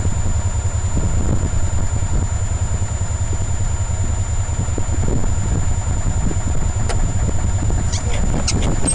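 1993 EZ-GO golf cart's gas engine running steadily on choke during a cold start after winter storage. A few faint ticks come near the end.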